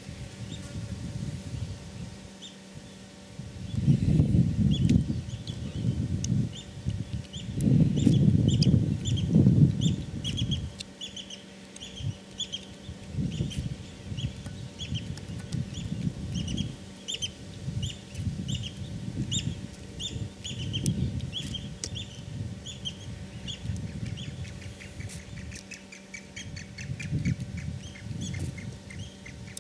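Birds calling in a long run of short, quickly repeated chirps, with a quicker series near the end. Under them, irregular low rumbling noise swells loudest about four seconds in and again around eight to ten seconds in.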